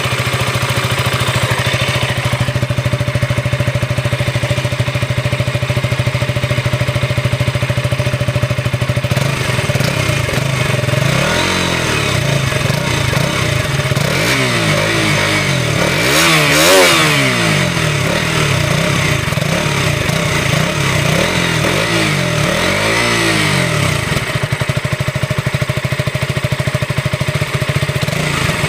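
KTM Duke 200 BS6 single-cylinder four-stroke engine idling through its stock exhaust, then revved in a series of quick throttle blips, the highest and loudest one near the middle, before settling back to a steady idle.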